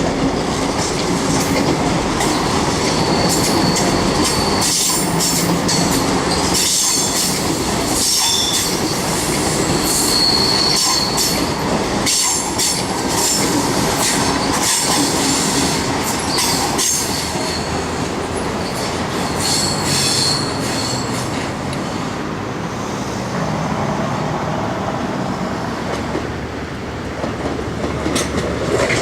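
Train running through a junction, steel wheels squealing on and off in a high pitch over a steady rumble, with repeated clicks and clacks of the wheels crossing rail joints and points.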